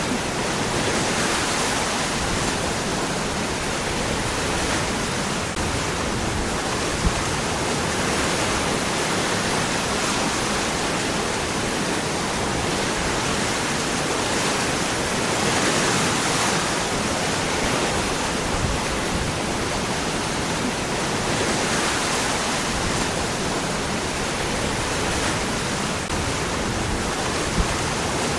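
Waterfall pouring over rocks: a steady, dense rush of falling water that swells and eases slightly, with two brief splashes or knocks, one about a quarter of the way in and one near the end.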